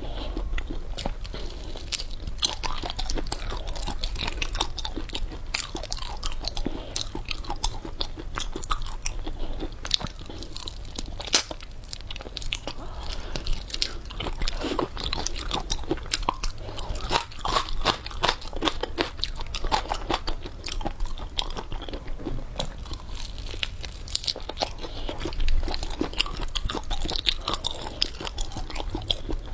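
Close-up chewing and crunching of food, with a steady run of irregular sharp, wet clicks and crunches.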